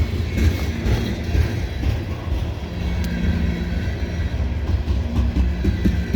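CSX freight train rolling past at close range: a continuous deep rumble of the locomotives and rail cars, with a steady hum in the middle and faint rail clicks.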